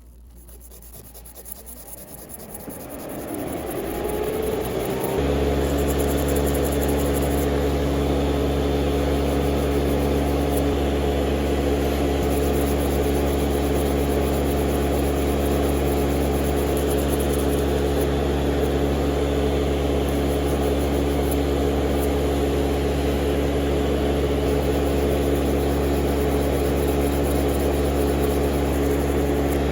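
Small electric motor of a manicure machine speeding up over about five seconds, its pitch rising, then running at a steady high speed as a loud, even hum.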